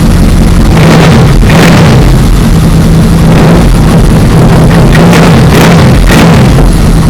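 Honda VFR800 V4 engine running with its air filter housing and filter removed, idling steadily with short throttle blips in two groups, a pair about a second in and three more near the end, each bringing a rush of intake noise. It sounds meaner with the intake open.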